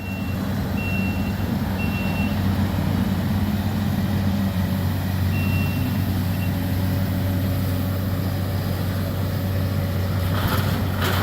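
Heavy demolition excavator's diesel engine running steadily, with a reversing alarm beeping three times, then twice more about five seconds in.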